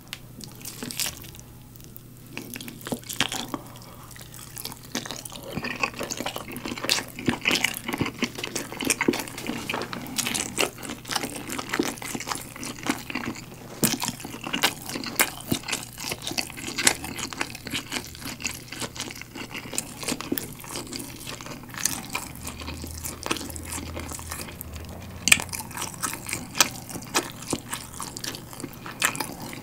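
Close-miked wet chewing of galbi-sauce-glazed chicken meat and rice: sticky, smacking mouth sounds with many small irregular clicks. Fingers handle the sauce-coated chicken on the plate near the end.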